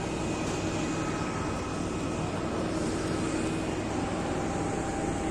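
Steady drone of aircraft engines with a constant low hum and faint high whining tones. One whine fades out about halfway through and a lower one starts near the end.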